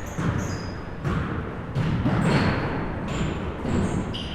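Basketballs bouncing on a gym floor, a series of thuds about once a second, with short high sneaker squeaks in between.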